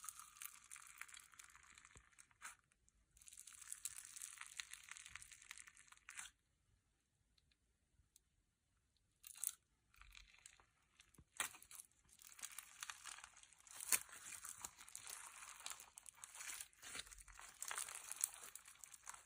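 Slime being squeezed and worked by hand, a fine crackling full of small pops and clicks. It comes in stretches, with a pause of a few seconds partway through.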